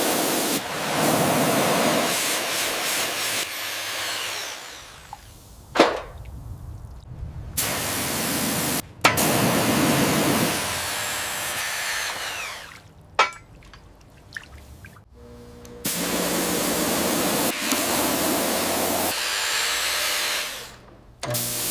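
A string of abruptly cut tool sounds: stretches of hiss and scraping, a few sharp clicks or knocks, and a small power tool running steadily for several seconds near the end.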